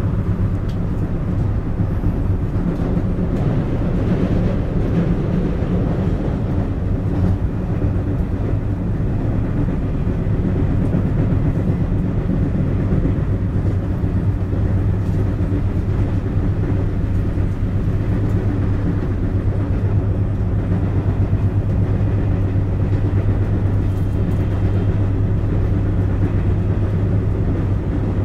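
JR West 223 series EMU running at steady speed, heard from inside its motor car: a continuous rumble of wheels on rail and running gear with a steady low drone. The wheels carry a flat spot, giving an abnormal flat-wheel pounding.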